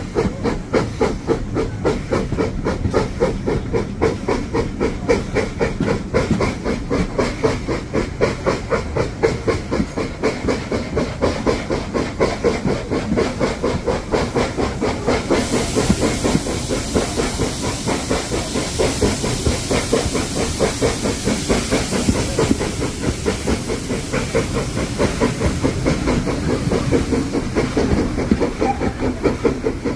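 Steam train under way behind BR Standard Class 4 4-6-0 No. 75078, heard on board: a steady rhythmic beat, about four a second. A loud hiss comes in suddenly about halfway through and carries on.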